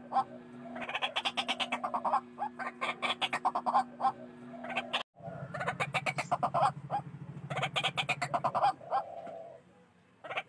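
White-breasted waterhen calling: runs of rapid, harsh repeated notes in several bursts, broken by a brief silent gap about halfway through.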